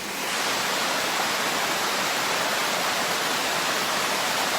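Rushing water of a rain-swollen creek, a steady dense hiss that rises sharply right at the start and then holds level.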